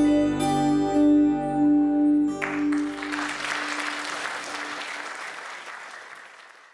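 A band's closing chord held on steady tones, cut off about two and a half seconds in. Audience applause then takes over and fades away.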